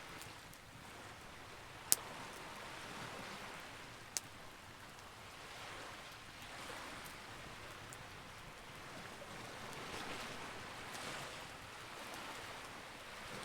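Campfire burning with a steady hiss that swells and fades, broken by sharp crackling pops, the loudest two about two and four seconds in.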